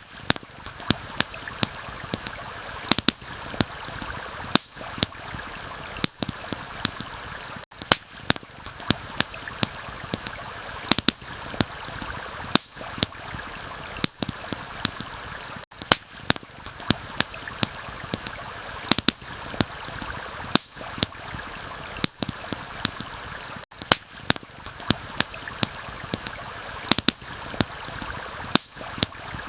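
Steady rush of flowing stream water, with frequent sharp crackles and pops from a wood campfire scattered irregularly over it.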